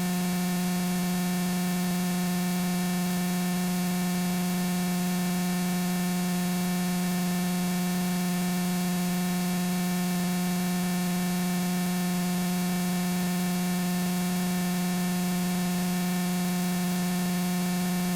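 Steady, unchanging hum with a constant hiss on the RV-7's cockpit intercom and radio audio, with no one transmitting.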